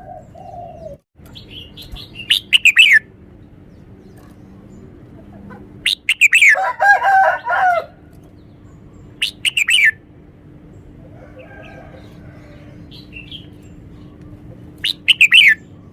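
Red-whiskered bulbul singing in four short bursts of sharp, falling chirps, with a longer, lower call mixed into the second burst.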